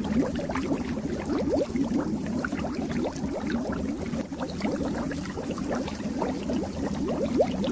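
Fish-tank water bubbling steadily, with many quick little bubble pops over a low, even hum.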